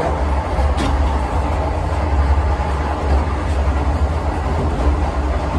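Vande Bharat Express electric trainset running along the track, heard from inside the driver's cab: a steady low rumble under a constant hiss of running noise. A single sharp click just under a second in.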